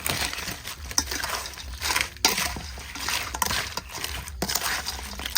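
Dishes and utensils clattering, with many sharp clicks and knocks, the loudest about two seconds in.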